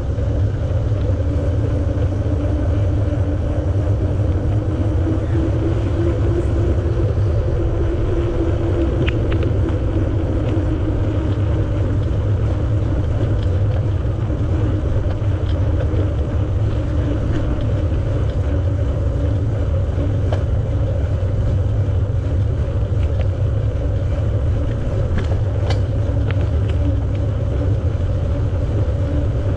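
Bicycle riding on a paved path: a steady low rumble of wind buffeting the microphone and tyres rolling, with a faint hum that wavers in pitch and a few light ticks.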